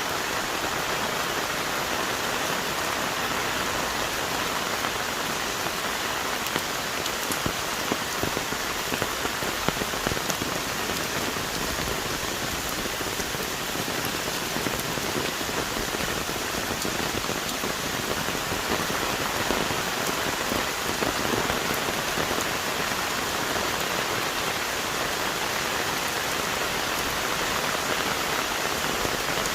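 Heavy tropical rain falling steadily on rainforest trees: a dense, even hiss dotted with countless small drop impacts.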